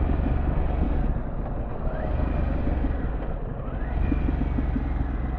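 Harley-Davidson Pan America Special's 1250 cc V-twin running under way, with road and wind noise. It eases off about a second in and picks up again about four seconds in.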